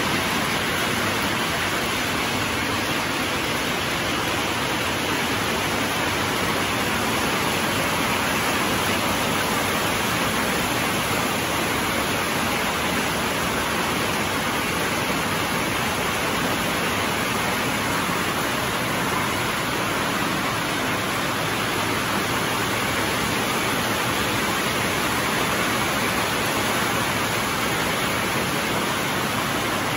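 Heavy rain on a corrugated metal hangar roof, a loud steady hiss.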